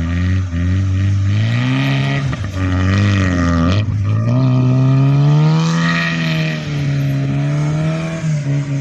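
Tofaş Doğan SLX's four-cylinder engine revving up and down again and again, with one longer held rise through the middle, as the car tries to pull free of snow it is stuck in.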